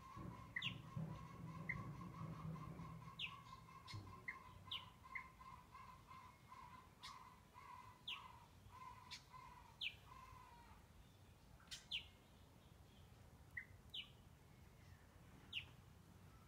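Faint outdoor bird calls: a short, high, falling chirp repeated every one to two seconds. Under it a lower, steady pulsing call runs and fades out about ten seconds in.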